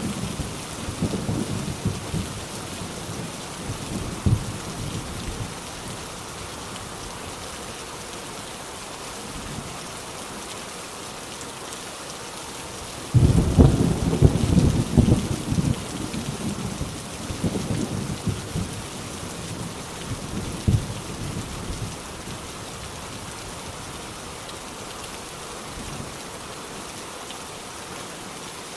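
Heavy rain falling steadily on a tin roof, with thunder: a roll fading away in the first few seconds, then a sudden loud crack of thunder about a third of the way in that rumbles on and dies away over several seconds.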